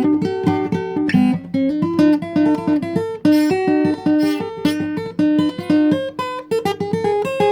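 Acoustic guitar playing an instrumental passage of quick plucked notes and strums.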